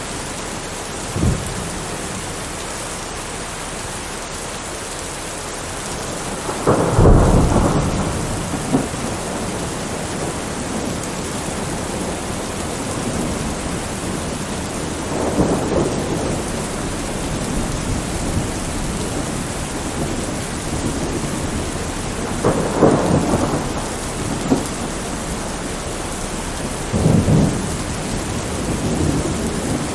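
Thunderstorm: steady rain hissing throughout, with five rolls of thunder, a short crack just over a second in, the loudest and longest roll about seven seconds in, and further rumbles about halfway, around three-quarters of the way and near the end.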